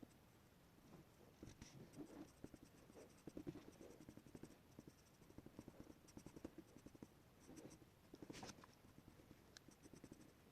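Faint scratching of a pencil sketching on paper, in short irregular strokes, with one sharper tap about eight seconds in.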